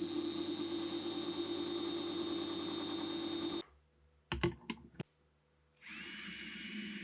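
Power tool running steadily, cutting off suddenly about halfway through. A few sharp clicks or knocks follow, then a quieter machine sound starts near the end.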